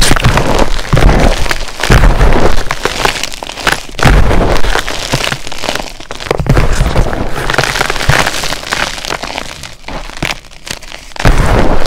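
Dyed blocks of SPRI gym chalk (magnesium carbonate) being crushed, crunching and crumbling in repeated loud bursts of crackle. There is a quieter spell about nine seconds in, then another loud crunch near the end.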